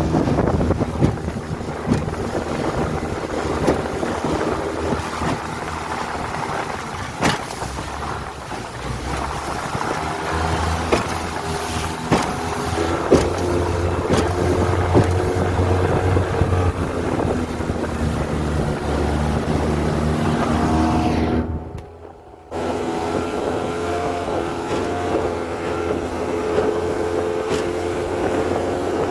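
Honda 20 hp four-stroke outboard motor on a small aluminum boat, running at cruising speed with its pitch shifting a little, with wind on the microphone and occasional sharp knocks. The sound drops away for about a second about three quarters of the way through.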